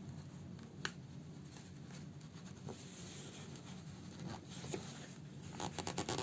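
Hand-sewing a fabric house slipper: faint scratchy rustling as needle and thread are worked through the material, with a sharp click about a second in and a quick run of small clicks near the end.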